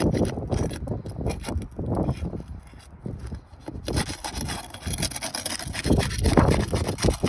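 Flat bar scraping and prying under asphalt shingle tabs to break their seal, in a run of irregular rasping strokes with a brief lull midway.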